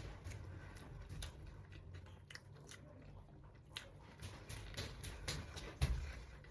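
A person biting and chewing food, with irregular crisp crunches and clicks scattered throughout.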